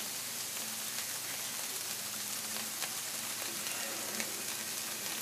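Shredded spaghetti squash frying in butter in a skillet: a steady sizzle with a few faint pops.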